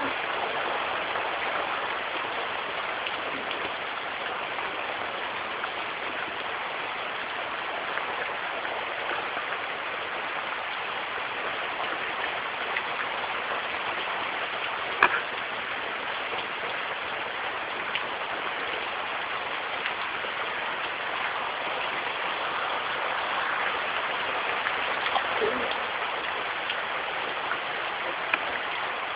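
Steady rain falling, an even hiss with no thunder, broken by one sharp tap about halfway through.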